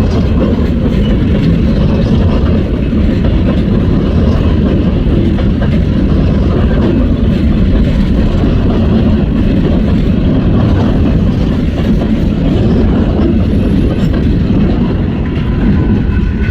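Norfolk Southern train rolling past, a loud steady rumble of wheels on rail.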